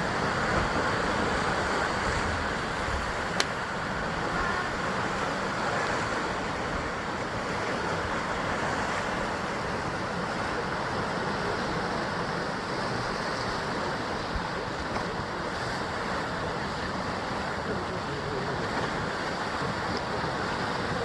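Sea waves surging and washing against the basalt rock coast, a steady, continuous wash of surf. A single sharp click about three and a half seconds in.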